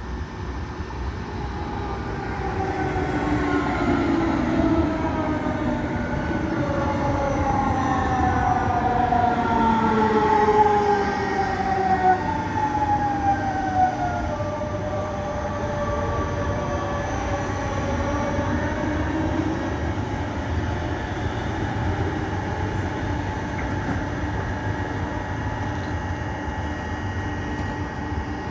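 Regional train running past, with a steady rumble. During the first half several high squealing tones slide downward in pitch at once; these are the squeal the train is nicknamed for. The tones fade out about halfway through, leaving the rumble.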